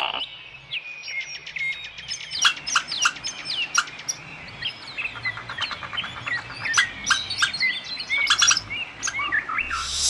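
Small birds chirping busily: many short high chirps and falling peeps overlapping, with quick clicking notes among them. A loud hiss sets in right at the end.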